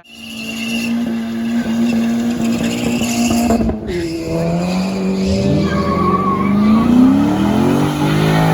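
A car doing a burnout: its engine held high in the revs while the tyres squeal and skid. The revs drop briefly about four seconds in, then climb again.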